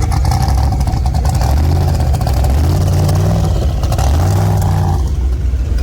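Car engine revving with a loud exhaust, its pitch rising and falling twice in the middle.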